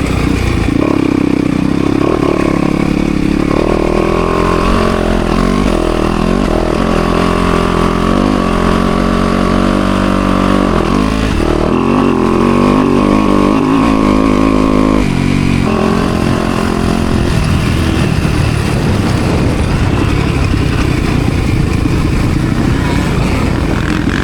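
Motocross bike engine being ridden hard, its pitch climbing and dropping again and again as the throttle is opened and closed and the gears change, then running more evenly over the last stretch.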